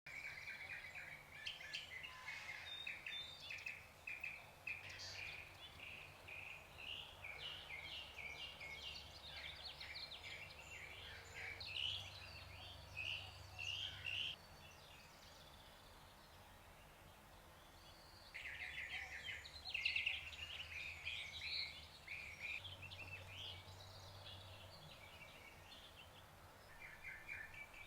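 Small birds singing and chirping in rapid runs of high notes, broken by a pause of about four seconds midway, over a faint steady background hum.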